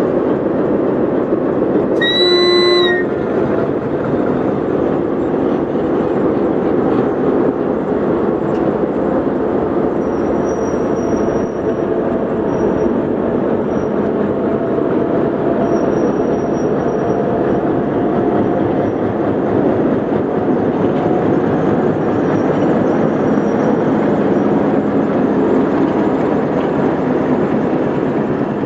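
HBU-20 diesel locomotive sounding one short horn blast about two seconds in, then the train running steadily past as the locomotive and coaches roll by. A faint high squeal comes and goes in the second half.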